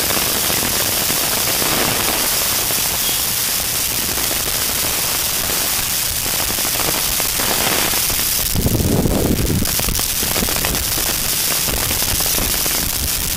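Heavy thunderstorm rain pouring down in a steady dense hiss, with a brief louder burst of noise about nine seconds in.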